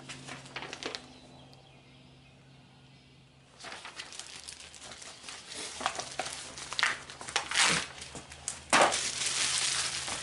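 Cardboard shipping box and its packing being opened and handled: irregular rustling, scraping and crinkling starting about three and a half seconds in, loudest near the end, over a steady low hum.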